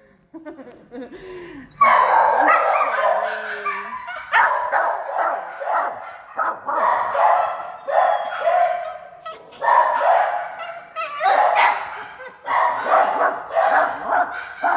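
Shelter dogs barking over one another without a break, starting about two seconds in, after a short, faint whine.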